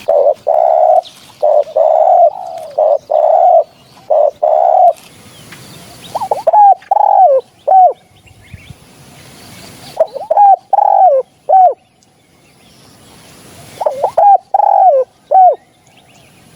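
Spotted dove cooing. A run of about eight short, steady coos over the first five seconds is followed by three phrases of quick, bending coos spaced a few seconds apart.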